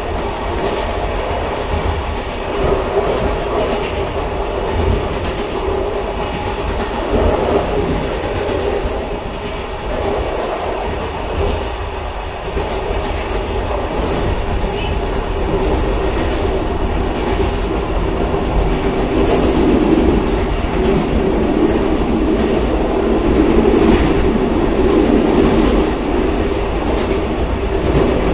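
Railcar running on the rails, a steady rumble with a droning hum that grows louder in the second half and faint wheel clicks over the rail joints.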